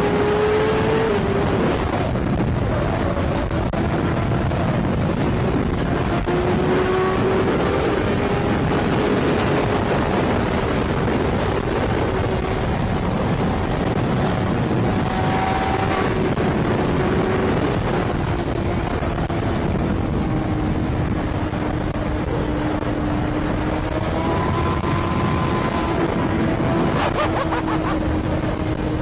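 Motorcycle riding at a fairly steady speed: a steady engine hum that sags slightly past the middle and climbs again near the end, under a constant rush of wind and road noise.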